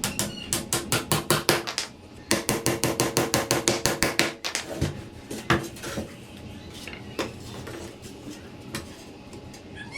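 Rapid hammer taps, about seven a second, in two runs of roughly two seconds each, then a few scattered knocks, as the wooden sticks of a handmade bird cage are hammered together.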